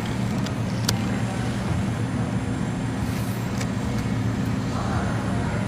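Automatic pineapple-cutting machine running through its cycle, cutting a pineapple into pieces: a steady low motor hum with a couple of faint clicks.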